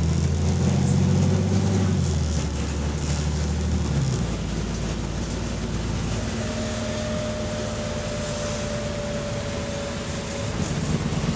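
Bus diesel engine running under load, then easing off about four seconds in to a steadier, lower drone, with a thin steady whine for a few seconds after. The bus has an exhaust leak.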